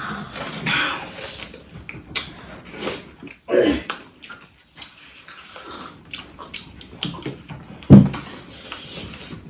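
Close-up eating sounds: wet chewing, smacking and mouth noises with scattered clicks, and a short loud low thump about eight seconds in.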